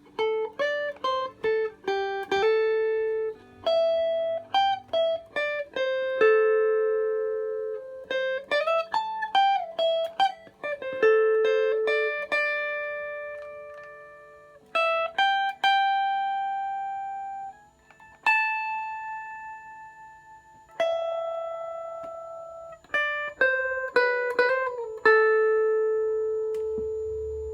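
Electric guitar played on a clean tone: single-note phrases with string bends, several notes left to ring and fade slowly. This is an old Japanese guitar whose bent-plate tremolo block has been filled with melted metal to lengthen its sustain, and it sounds as if the sustain has stretched quite a lot.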